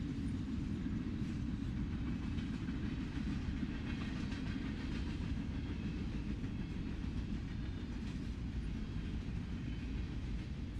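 Freight train cars (boxcars, covered hoppers, then double-stack container cars) rolling steadily past. Their steel wheels on the rails make a continuous rumble with a light clatter.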